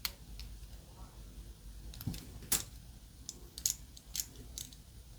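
Small sharp clicks and taps of a die-cast model car's parts being handled and fitted together by hand, about six separate clicks in a few seconds.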